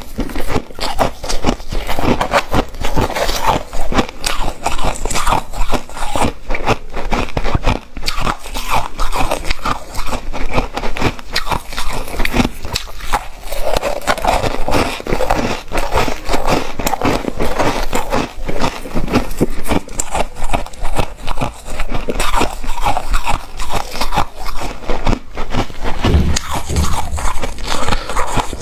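A person biting and chewing ice close to the microphone: dense, irregular crunching and crackling with no pauses.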